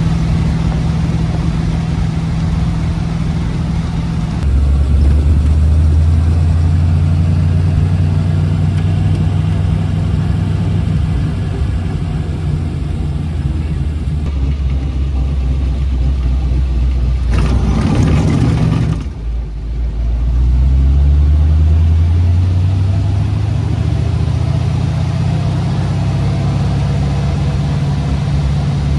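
1932 Ford roadster's flathead V8 running steadily under way, heard from inside the car. About two-thirds of the way through comes a brief rush of noise, the engine drops off for a moment, then it pulls up in pitch again.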